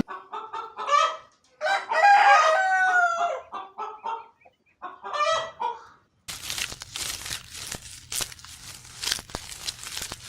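Rooster clucking, then crowing once, then clucking again briefly. About six seconds in, this gives way to a different noisy, rustling sound with sharp clicks.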